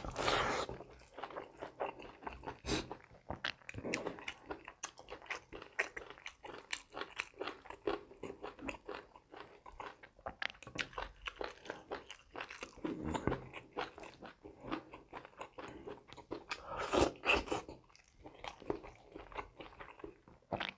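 Close-miked eating: a person chewing mouthfuls of rice and curry, with crunchy bites and a steady run of small mouth clicks and smacks, and a few louder bites now and then.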